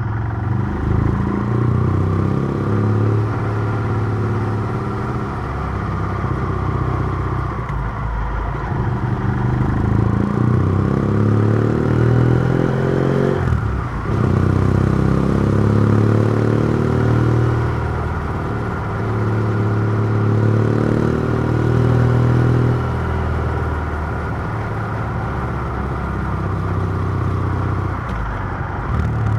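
BMW F700GS parallel-twin engine with a Mivv Oval titanium exhaust, its dB killer removed, pulling through the gears. Revs rise and fall, with a sharp break and drop in pitch about halfway through where a gear is changed.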